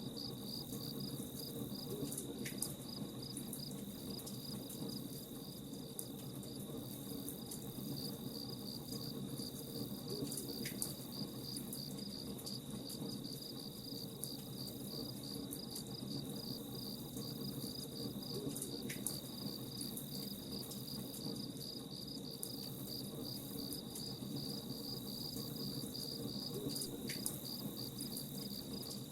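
Crickets chirping in a steady, rapid pulse over the crackle of a campfire.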